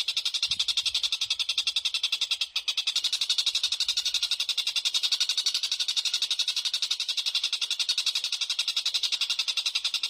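A small bird calling in a fast, even trill of sharp high notes, repeated without pause apart from one brief break about two and a half seconds in: a bird-call recording of the kind played to train cage birds.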